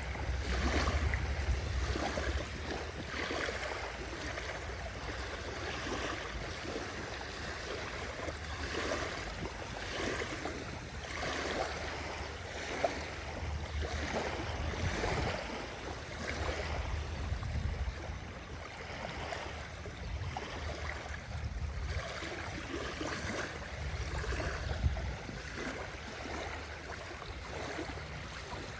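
Small sea waves washing and lapping on the shore in an irregular, uneven wash, with a low rumble underneath.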